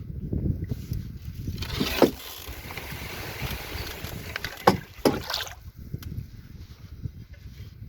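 Canoe being paddled with a double-bladed paddle: two splashing strokes, about two and five seconds in, over a steady low rumble.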